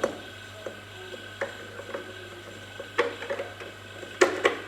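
A few irregular sharp clicks and light knocks over a steady low hum.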